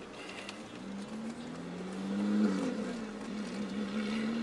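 Car engine running, its note rising to a peak about two seconds in, then dropping back and wavering.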